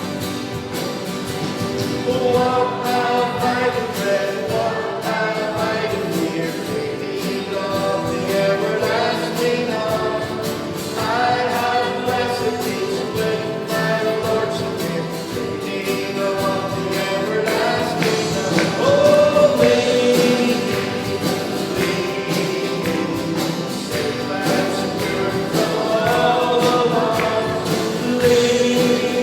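A group of voices singing a gospel song with instrumental accompaniment and a steady beat.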